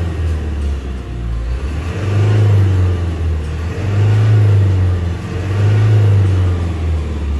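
Isuzu Forward truck's diesel engine revved up and let fall back several times, about every two seconds.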